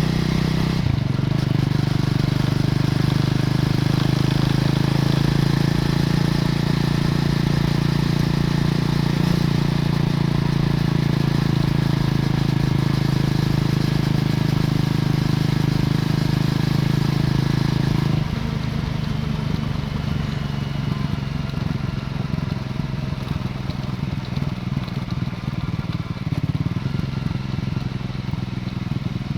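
Stock exhaust of a Triumph Scrambler 400 X's single-cylinder engine, running steadily under way. About two-thirds of the way through the engine note drops and gets quieter, leaving more wind and road noise.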